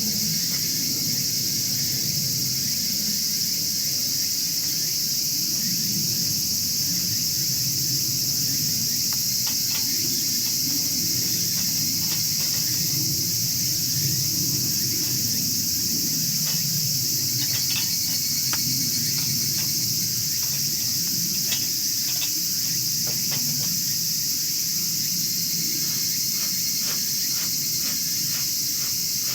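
Steady high-pitched chorus of crickets over a low rumble, with a wood fire in a chiminea giving small sharp crackles and pops, scattered at first and more frequent near the end.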